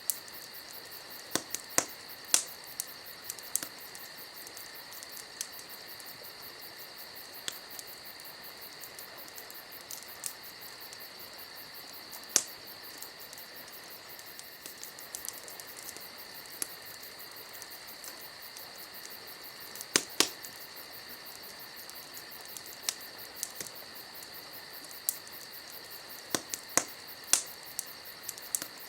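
Wood campfire crackling, with sharp irregular pops, the loudest about two seconds in, near the middle and about two-thirds through. Behind it, a steady chorus of crickets chirping.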